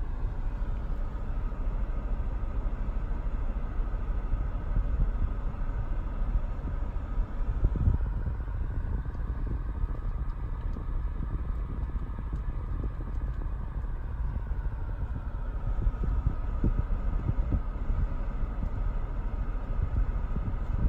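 Steady low rumble inside the cabin of a 2019 Volkswagen Tiguan, its engine idling, with a faint whine that drifts slowly up and down in pitch.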